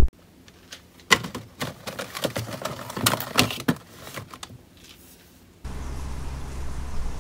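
Irregular knocks and clatters of a pan being handled as the chilled turnip cake is turned out of it. About two-thirds through, a steady hiss begins.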